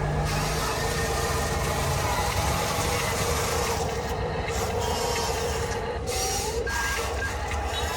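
Small electric motor and gearbox of a 1:14 scale RC construction truck running steadily with a whine, with its pitch shifting briefly near the end.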